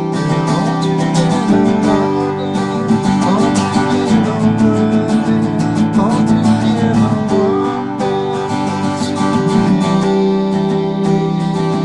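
Music of strummed acoustic guitar chords, played steadily.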